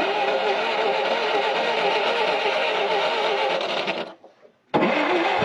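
Ditch Witch R40 trencher's V4 engine being cranked over without firing during a spark check, its pitch wavering with the compression strokes. It cranks for about four seconds, stops for a moment, then cranks again near the end.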